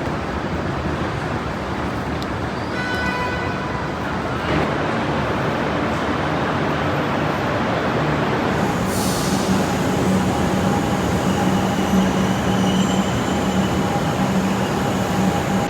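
A train running on the rails, a steady rumble that grows slightly louder, with a steady whine coming in from about halfway.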